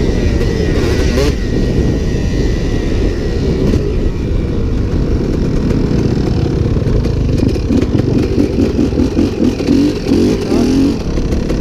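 Motocross bike engine running hard on the track, heard from the rider's camera under loud wind rush, with a fast, pulsing engine note in the later part.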